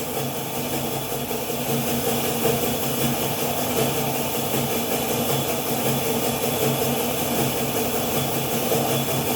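Old manual tube-bending machine running steadily with a constant, even mechanical hum.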